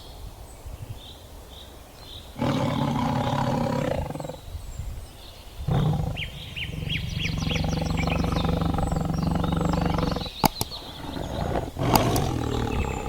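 Tiger roaring and growling in three bouts, the middle one the longest.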